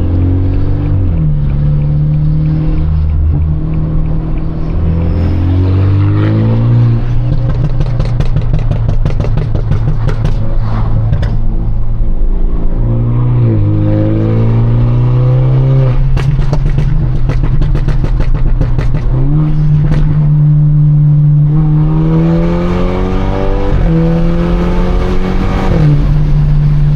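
Straight-piped, stage 2 tuned BMW 428i's turbocharged four-cylinder pulling hard through the gears, its pitch climbing and dropping back at each shift several times. Two stretches of rapid exhaust crackling, about 7 seconds in and again about 16 seconds in.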